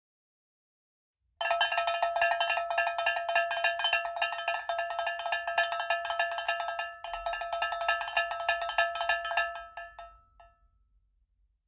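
Struck metal ringing at one steady pitch, hit many times a second, starting about a second and a half in, with a short break about seven seconds in and a fade-out near the end.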